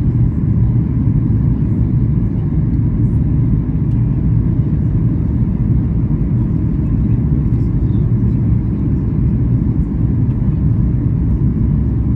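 Steady low rumble inside the cabin of a Boeing 737 MAX 8 taxiing after landing, its engines near idle.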